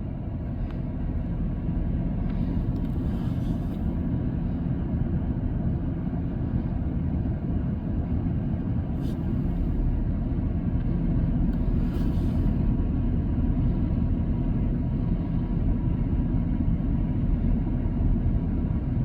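Steady low rumble of a motor vehicle's engine, with a few brief hisses over it.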